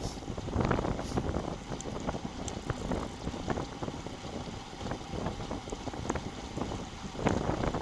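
Wind buffeting a bicycle-mounted action camera's microphone while riding, a low rumble that swells in gusts, louder about half a second in and again near the end.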